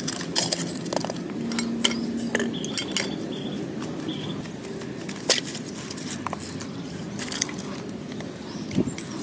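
Scattered light clinks and taps, one louder sharp knock about five seconds in, over a steady low hum.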